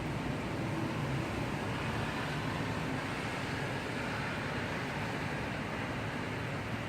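Heavy rain falling steadily during a thundershower, an even unbroken hiss.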